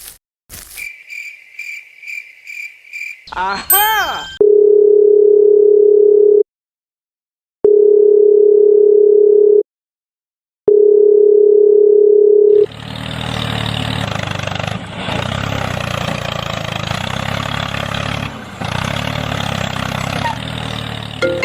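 Electronic sound effects: a quick run of about six short high beeps, a rising whistle-like glide, then three long steady tones of about two seconds each with short silences between them, followed by a steady mechanical buzzing noise.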